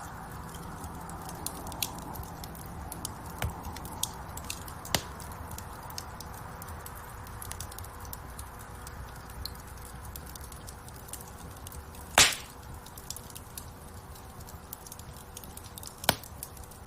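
Wood fire burning in a fireplace, with a steady hiss of flames and scattered sharp crackles. One loud pop comes about twelve seconds in, and another near the end.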